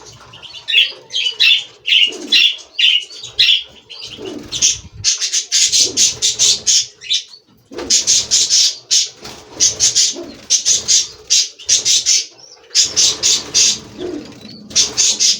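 European goldfinches twittering and calling: high chirps at first, then rapid bursts of trilled chirps, each about a second long with short gaps between.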